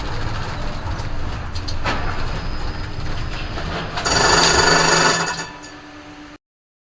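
Road and engine noise of a moving vehicle with rattling clicks, then a loud, harsh, ringing sound lasting just over a second about four seconds in. The sound fades and cuts off suddenly shortly before the end.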